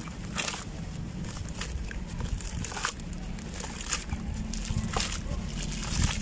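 Dry sand-cement chunks crumbling, with irregular crunching cracks a few times a second over a low background rumble.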